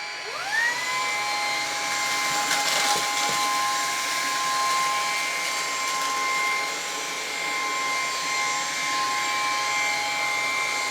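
Lupe Pure cordless stick vacuum running on a hard floor with a steady high motor whine, a second tone rising into place as it spins up in the first second. It is picking up scattered test debris.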